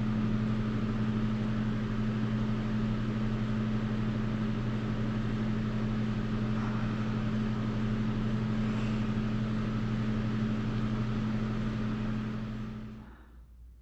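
A heater's fan running steadily, a low electric hum under an even whir, shutting off suddenly near the end.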